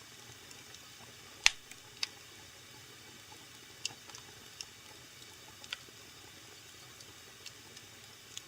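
Wood fire in a fireplace crackling: scattered sharp pops at irregular intervals over a faint steady hiss, the loudest about one and a half seconds in.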